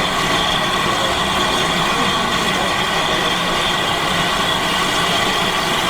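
Steady, unbroken rumble and hiss of a steam-hauled train.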